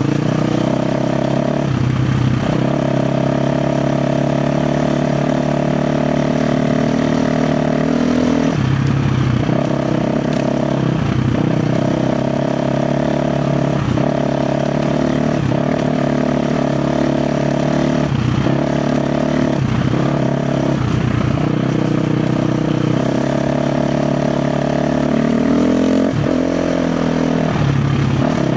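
KTM 350 XC-F dirt bike's single-cylinder four-stroke engine running under load at steady revs. The tone drops briefly every few seconds as the throttle is rolled off and back on.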